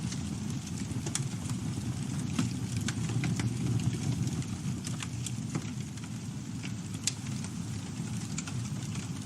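Campfire burning: a steady low rumble of flames with scattered crackles and pops, one louder pop about seven seconds in.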